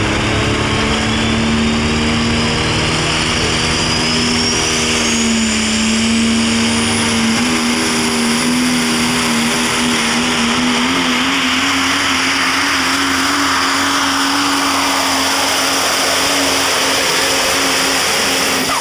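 Super stock diesel pulling truck running flat out under load down the track. The engine is held at high rpm with its note creeping slightly upward, and a high whine climbs steadily in pitch over the first seven seconds. The engine sound drops away suddenly at the very end.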